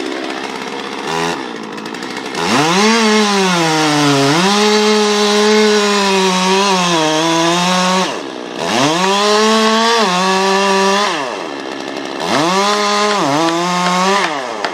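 Two-stroke chainsaw cutting a tree, revved to full throttle three times with its pitch dipping and recovering as it cuts, dropping back to idle between the runs.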